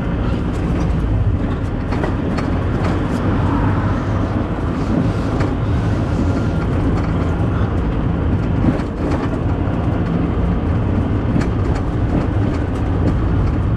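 2004 Ford Focus driving at a steady pace: a constant low rumble of engine and tyres, with scattered light clicks and rattles throughout.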